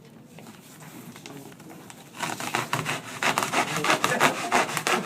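A knife cutting fiberglass duct board along a square: faint rubbing at first, then from about two seconds in a loud run of rapid scraping, sawing strokes.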